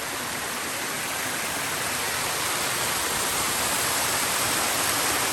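Small waterfall in a desert side canyon splashing steadily, a constant rushing hiss that grows slightly louder over the few seconds.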